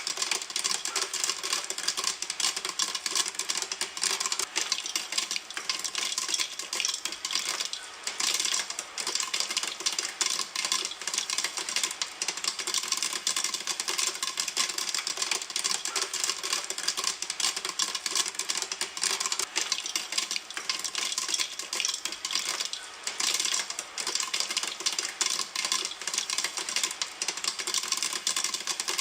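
Popcorn kernels popping in a pan: a dense, continuous stream of rapid sharp pops and clicks, close together at the height of popping.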